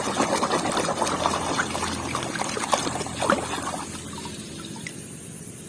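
Water pouring and trickling over a muddy plastic toy as it is washed, with small clicks and knocks of the toy being handled. It grows quieter over the last second or two.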